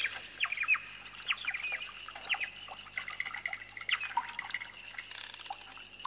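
Little bird chirps, short quick falling calls repeated singly and in small groups, over a faint trickle of water like a small fountain.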